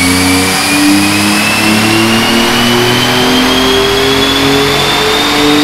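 Built, straight-piped twin-turbo 6G72 V6 of a Mitsubishi 3000GT VR4 running at full throttle on a chassis dyno, its revs climbing slowly and steadily through the pull. A thin high whine rises along with it.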